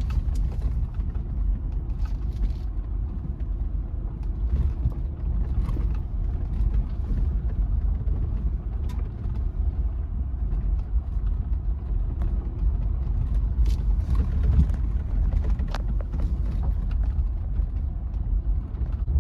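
Jeep Gladiator on a trail, a steady low rumble of the vehicle with scattered short clicks and knocks.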